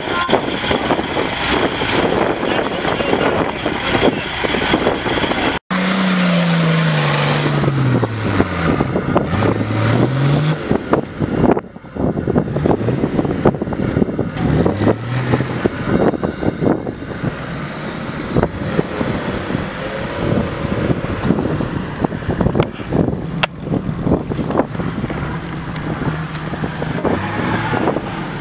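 Off-road 4x4 engine labouring in sand, revving down and back up several times as it climbs a slope and drives across churned ground, with tyres working through the sand. The first few seconds hold a different, windy outdoor scene with wind on the microphone.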